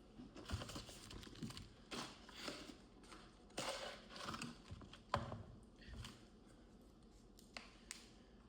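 Someone eating fast food: irregular handling and crinkling of paper food packaging, with a few sharp clicks and taps.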